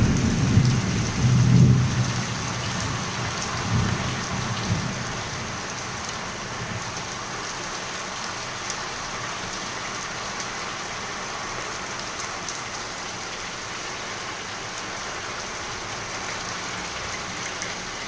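Heavy rain pouring down steadily, with low rumbles of thunder during the first five seconds or so.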